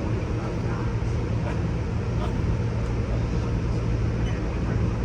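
Steady low rumble and hum of an Amtrak Superliner lounge car rolling along the track, heard from inside the car.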